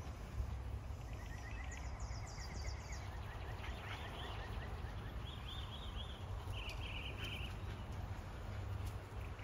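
Outdoor ambience: birds chirping in several short twittering runs over a low, steady rumble.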